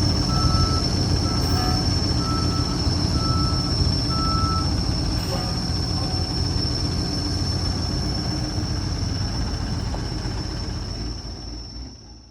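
Truck engine running steadily with a constant high whine, and a short beep repeating about once a second over the first few seconds; the sound fades out near the end.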